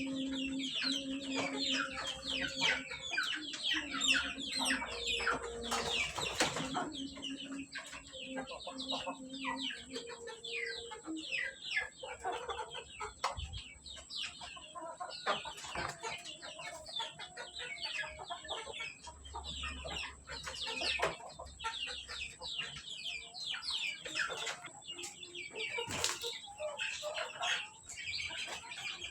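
A flock of village chickens clucking and cheeping in a dense, continuous chatter of short high calls while being fed. Two sharp knocks stand out, one about six seconds in and one near the end.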